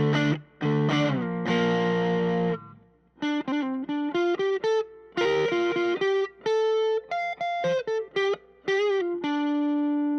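Overdriven Telecaster-style electric guitar: a few strummed chords, then a quick single-note lead line with string bends, ending on one held note left ringing near the end.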